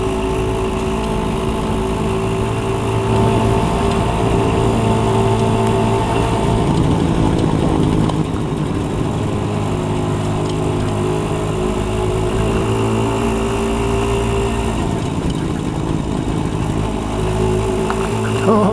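Motorcycle engine running steadily while riding, its note wavering a little a few seconds in before settling again.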